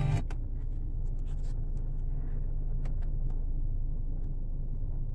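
Steady low hum inside the cabin of a 2014 Nissan Sentra with the engine running and the heat on, with a few light clicks. The car radio's music cuts off just at the start.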